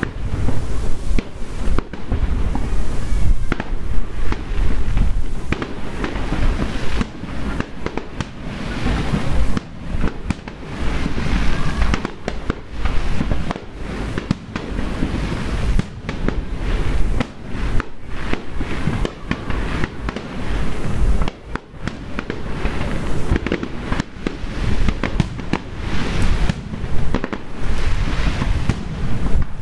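Fireworks display going off in a dense, unbroken run of bangs, several a second, over a low rumble.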